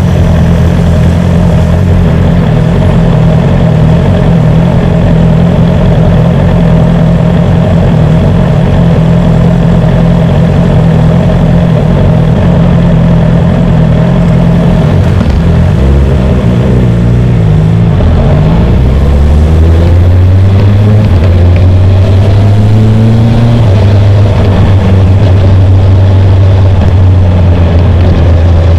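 BMW S1000R inline-four engine running at low speed. Its pitch wavers and shifts about halfway through, then holds steady and lower.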